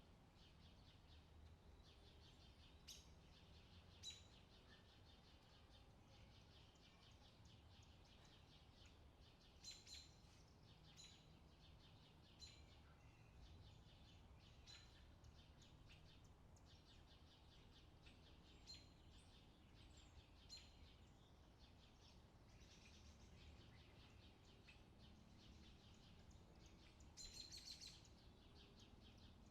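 Faint birdsong: many short high chirps and tweets scattered throughout, with a quick flurry of calls near the end, over a low steady background hum.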